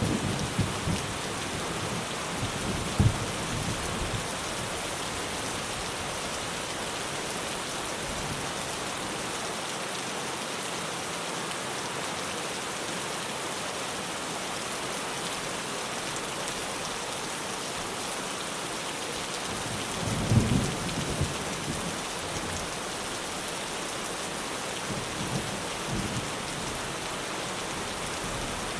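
Rain drumming steadily on a tin roof, with thunder rumbling in the first few seconds, including one sharp crack, and again about two-thirds of the way through.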